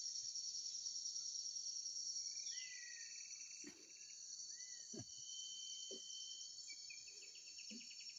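Steady high-pitched insect chorus, with a few short whistled bird calls from about two and a half seconds in.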